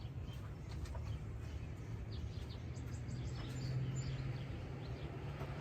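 Outdoor background of a steady low hum, with faint bird chirps and a few light ticks scattered over it.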